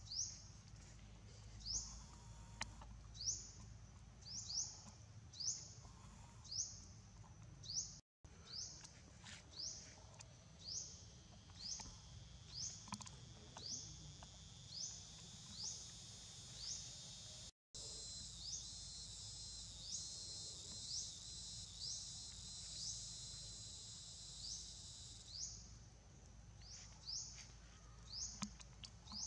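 Outdoor ambience with a bird's short, high, rising chirp repeated about once or twice a second. A steady high-pitched buzz joins for several seconds past the middle.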